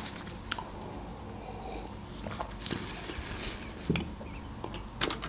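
Close-miked mouth sounds of someone chewing soft food with the mouth closed: faint wet smacks and small clicks, with a couple of sharper clicks near the end.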